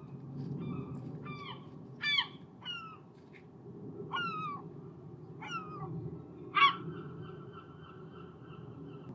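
Herring gulls calling: about seven short, downward-sliding cries, the loudest about two seconds in and again near the end, over a steady low background rumble.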